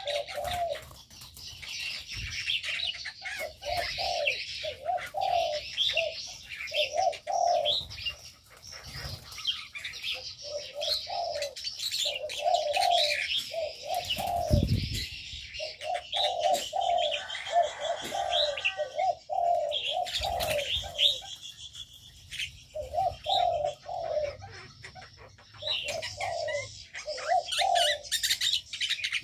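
A mix of aviary birds calling: runs of short, low, cooing calls repeat over constant high chirping and twittering. There is one brief low thump about halfway through.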